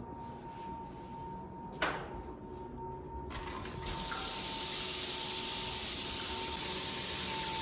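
A click, then a loud steady hissing spray that starts suddenly about four seconds in and keeps going.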